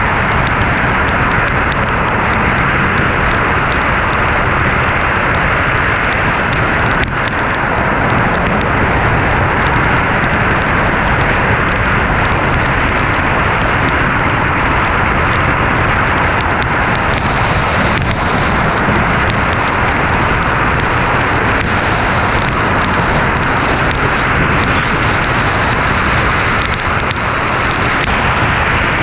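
Heavy rain and wind noise with tyres on a wet road while driving through a hurricane: a loud, steady rush, with a few faint ticks of drops.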